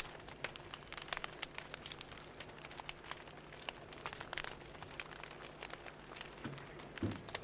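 Fire crackling: irregular snaps and pops over a steady low hiss, with a soft low thump about a second before the end.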